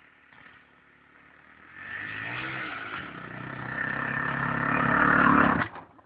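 Motorcycle engine running and accelerating, growing louder over a few seconds, then cutting off abruptly near the end.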